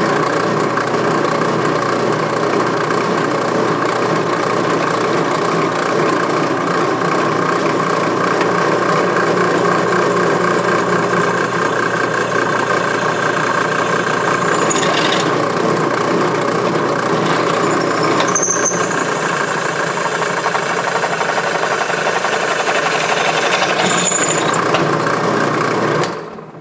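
Power drill boring a hole through a steel bracket, running steadily with a high squeal as the bit cuts, and stopping suddenly near the end.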